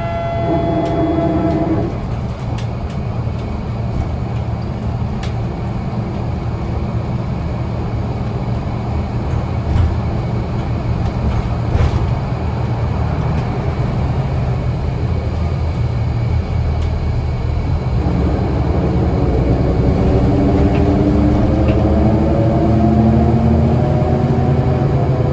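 Scania L94UA bus running with a steady low engine drone and a couple of short knocks midway. In the last several seconds a whine rises in pitch as the bus accelerates.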